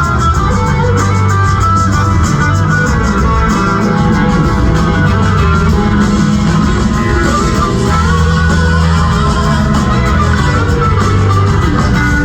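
Live rock band playing steadily, led by guitars over bass and drums, with a regular drum and cymbal beat.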